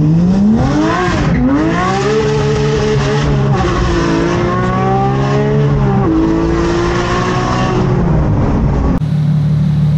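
Porsche 992 GT3's 4.0-litre flat-six with an IPE straight-piped exhaust, heard from inside the cabin, accelerating through the gears: the revs climb and drop sharply at three upshifts. Near the end the sound cuts to a steady, lower engine note.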